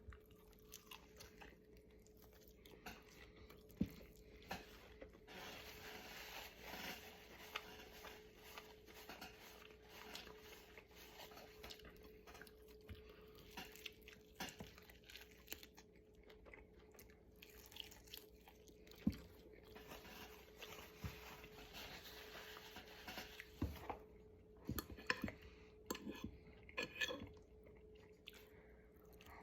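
A person chewing and crunching on a meal of chicken and meat, with scattered clicks of cutlery on a plate that come more often near the end. A faint steady hum lies under it.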